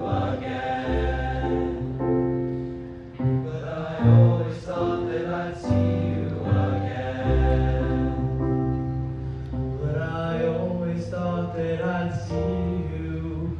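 Vocal ensemble singing wordless held chords in harmony, with a deep bass line under them and the chord changing every second or so.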